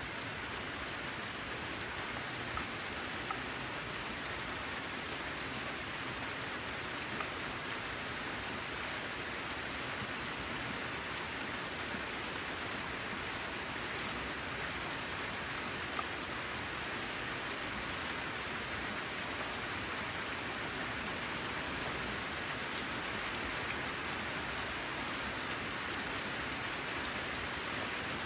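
Steady rain falling on a corrugated metal roof, an even hiss with a few single drops ticking out above it now and then.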